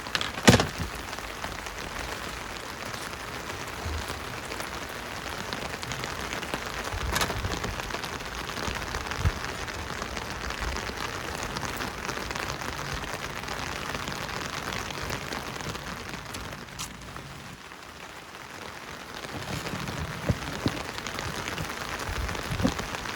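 Steady rain falling, with a few sharper drop or knock sounds, the loudest about half a second in.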